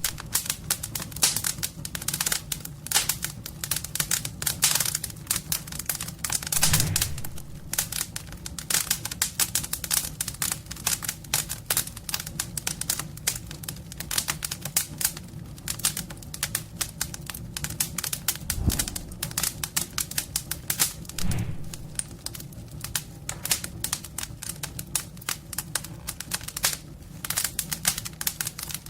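Wood fire crackling in a homemade fireplace: a dense, irregular run of sharp pops and snaps over a steady low rumble, with a few heavier thumps.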